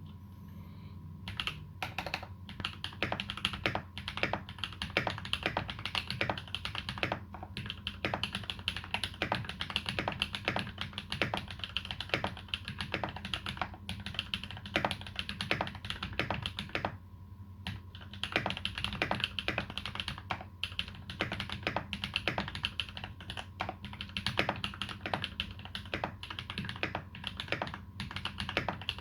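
Continuous typing on a TX EO87 mechanical keyboard with lubed Holy Panda tactile switches and GMK keycaps, a rapid run of keystrokes that starts about a second and a half in and pauses briefly about two-thirds of the way through.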